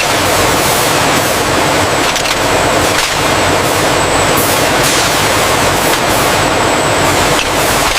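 Loud, steady mechanical roar with a thin high whine running through it.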